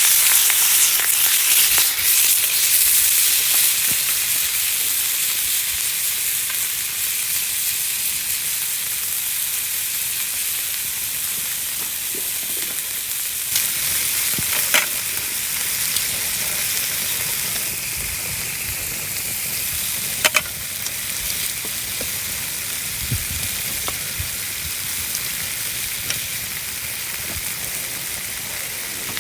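Wieners sizzling as they cook over a campfire: a steady frying hiss, with a few sharp pops.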